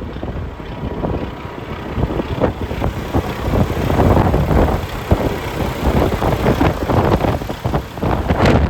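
Diesel engine of a 2014 Peterbilt semi truck running, with wind buffeting the microphone.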